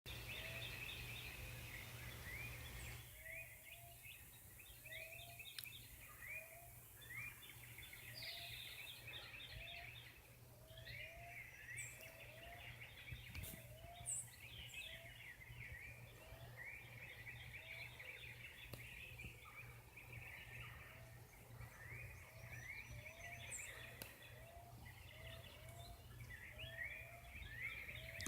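Faint dawn chorus of several birds chirping and calling over one another, with one lower rising note repeated about once a second, over a steady low rumble.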